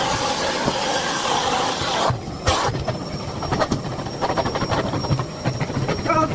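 Miele Blizzard CX1 bagless vacuum cleaner running at speed: a dense rush of air for about two seconds, then after a brief break a steady high whine with rapid clattering as it is pushed over the floor.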